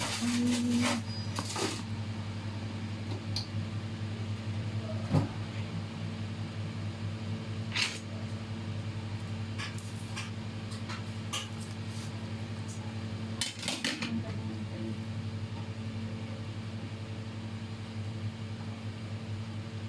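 Steady mechanical hum of a running kitchen appliance motor, with a few short clinks and knocks of dishes or utensils.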